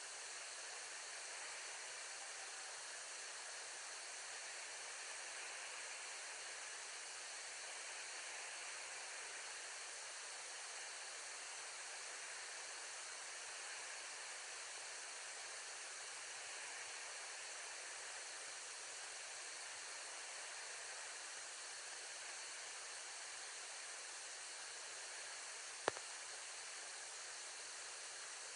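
Steady, even hiss with no bird calls in it, broken once by a single sharp click near the end.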